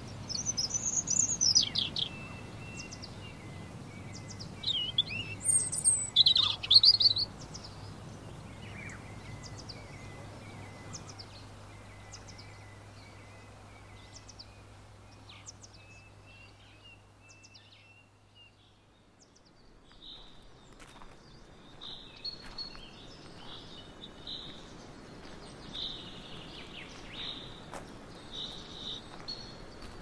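Songbirds singing: two loud runs of high, warbling song in the first seven seconds, then scattered chirps, and from about twenty seconds in a series of repeated high notes. A faint low hum sits underneath and stops a little past halfway.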